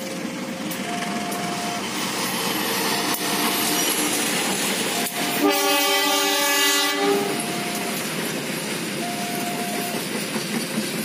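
Passenger train running past with wheel and rail noise and some clacking. About five and a half seconds in, a train horn sounds one long blast of about a second and a half, a chord of several notes, the loudest sound.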